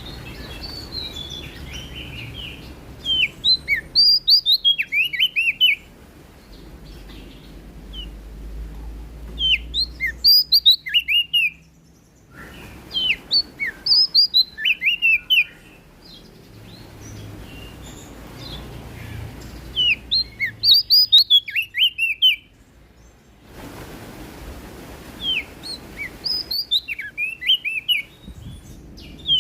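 Prenjak daun (cikrak daun), a small leaf warbler, singing in repeated bursts of rapid, high, down-slurred notes, each phrase about two seconds long and coming roughly every four to six seconds.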